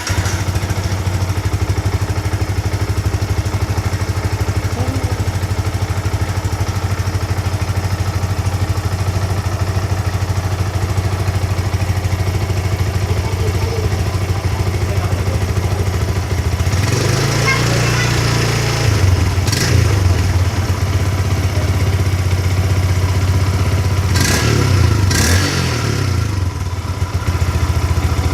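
Yamaha New Vixion (FZ150i) single-cylinder four-stroke engine idling through an old Honda CB150R exhaust muffler. It is revved once about two-thirds of the way through, then blipped twice in quick succession near the end, settling back to idle each time.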